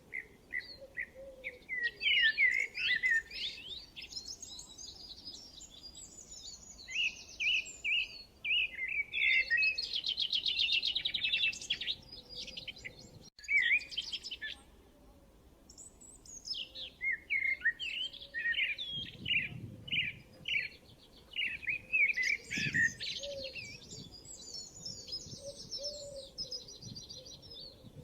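Several songbirds singing and chirping, with quick varied notes and rapid trills overlapping, and a momentary dropout about halfway through.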